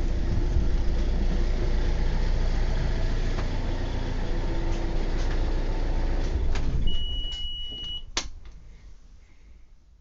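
Small hire cruiser's engine running steadily as the boat is steered in to a lock landing. Near the end a high steady beep sounds for about a second, a sharp click follows, and the sound then dies away.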